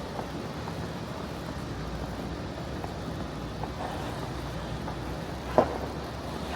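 Steady city traffic noise with a low rumble, and one sharp knock about five and a half seconds in.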